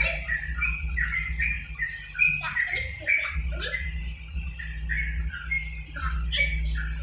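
Yellow-vented bulbul (trucuk) song: a fast, continuous run of short chirped and warbled notes.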